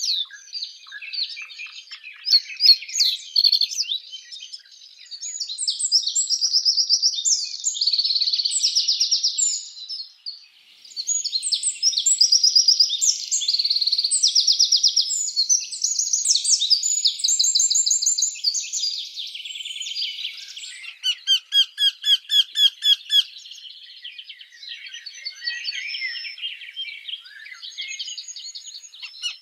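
Birds singing: high chirps and long rapid trills, then a run of loud, evenly spaced chirps at about four a second, followed by softer chirping.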